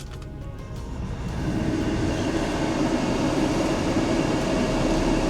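Car air-conditioning blower fan switching on about a second in, rising to a steady rush of air from the vents, over the low hum of the idling engine.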